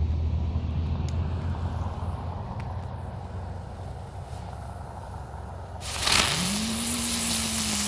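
A ground fountain firework lighting about six seconds in and spraying with a loud, steady hiss, a low tone rising and then holding beneath it. Before it there is a low steady rumble.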